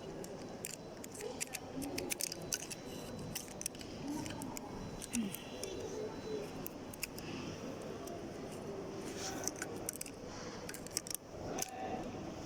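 Irregular small clicks and rattles of a screwdriver and loose parts being handled while a coffee grinder is taken apart.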